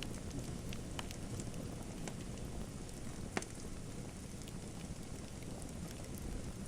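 Fire crackling in a fireplace: a steady low rush with scattered small pops and snaps, and one louder pop a little over three seconds in.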